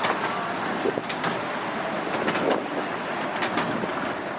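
Miniature railway train running, with a steady rumble and irregular clicks and knocks from the wheels on the track. A bird chirps briefly about one and a half seconds in.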